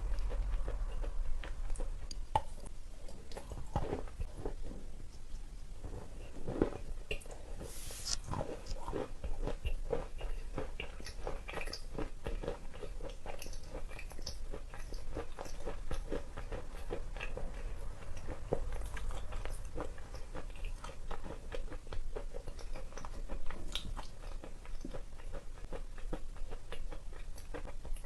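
Close-up chewing of a big bar of wet chalk: crunching bites and fast, dense crackling chewing, with a few louder bites in the first eight seconds or so.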